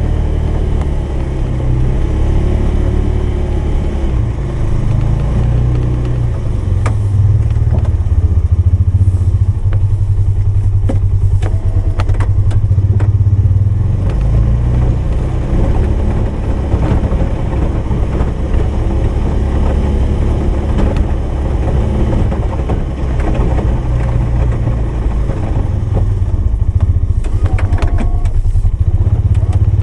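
Polaris 570 engine running steadily while plowing snow, its level rising and falling with throttle. There is scattered clatter in the middle and again near the end.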